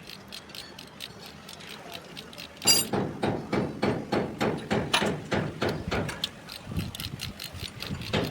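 Metal hand tool clicking rapidly and repeatedly, about three to five clicks a second, starting a little under three seconds in, from work on a diesel engine being stripped down.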